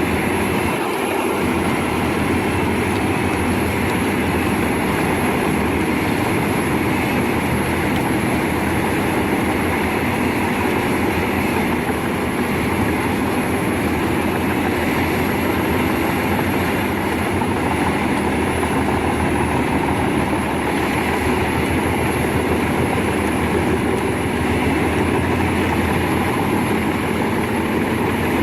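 Large forestry wood chipper running steadily under power: a continuous heavy engine and machine noise at an even level, with a faint high steady whine over it.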